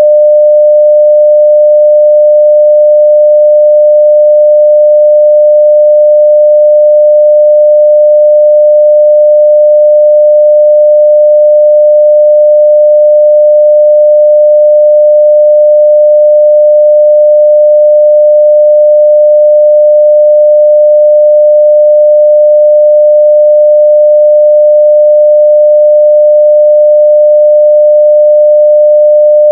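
Steady 600 Hz sine-wave test tone at full scale (0 dB), one pure unchanging pitch.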